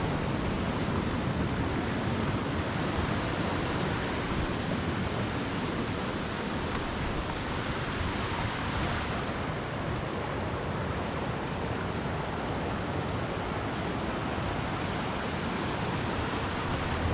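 Loud, steady rush of a waterfall's whitewater, with no break; the high hiss drops back slightly about nine seconds in.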